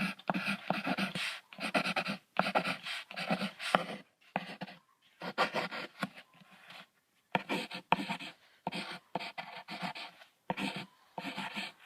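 An animal calling in a string of short, rough calls, about one a second, with brief pauses between them.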